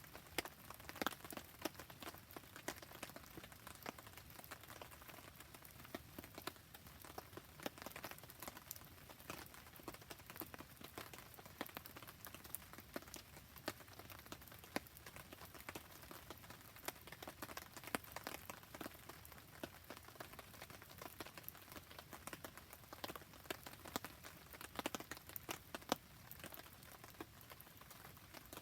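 Wood campfire crackling in the rain: irregular sharp ticks and pops over a soft, steady patter of rain.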